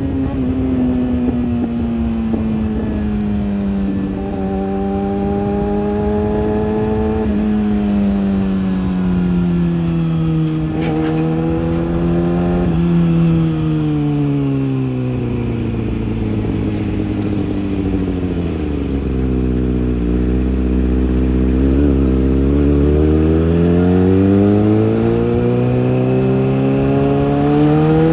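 Kawasaki ZX6R inline-four engine and exhaust running, its revs sliding slowly down with a few small steps, sinking to a low rumble about two-thirds through, then climbing again near the end. A couple of faint clicks come about halfway through.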